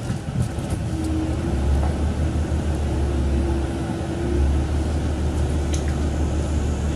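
Diesel engine of a converted KiHa 40 railcar running with a low rumble. The rumble grows stronger about a second and a half in, and again a little past four seconds, as the car starts a shunting move in the station yard.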